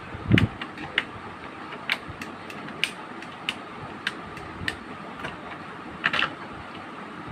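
A series of sharp clicks and light knocks, roughly one every half second, from an Epson L130 inkjet printer being worked on, with a louder low knock about half a second in and a quick cluster of clicks near the end, over a steady low hum.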